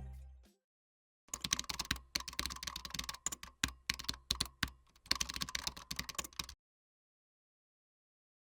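A run of rapid, irregular clicks and taps, like typing on a computer keyboard, starting about a second in and lasting about five seconds, with brief pauses.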